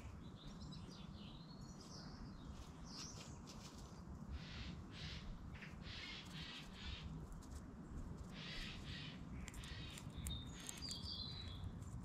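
Wild birds calling: thin chirps and short gliding whistles, and in the middle a run of short, harsh, scratchy calls, over a steady low background rumble.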